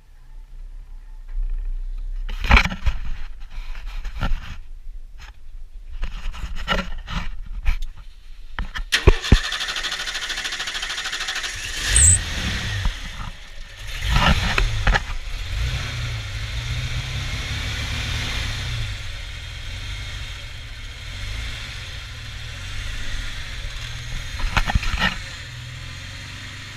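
A few knocks and clanks, then the 1989 Ford F-150's engine starts about a third of the way in and runs at a steady idle after a fresh oil change, with a short high squeal shortly after it catches.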